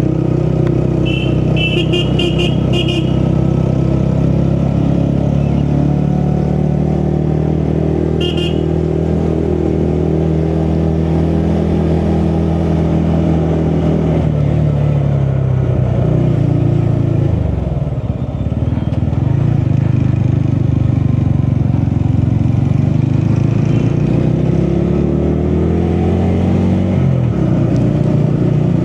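Motorcycle engine running under way at steady speed; around the middle it eases off with the pitch dropping, then picks up again. A few short horn toots sound near the start and once about eight seconds in.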